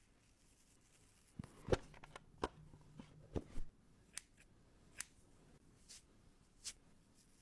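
Small ear-cleaning tools clicking and tapping: about a dozen short, sharp clicks, spaced irregularly, with the loudest about a second and a half in.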